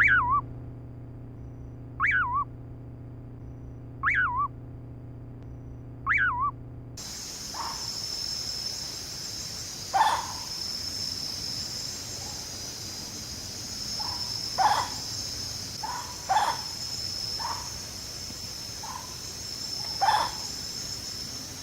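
An owl calling at night: a clear whistled note falling sharply in pitch, repeated about every two seconds. About seven seconds in, a steady high insect chorus takes over, with scattered shorter bird calls over it.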